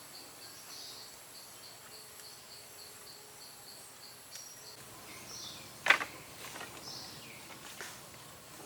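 Insects and birds outdoors: a high chirp repeating about four times a second for the first few seconds, over a steady high insect whine. There is one sharp knock about six seconds in, the loudest sound, followed by a few scattered chirps.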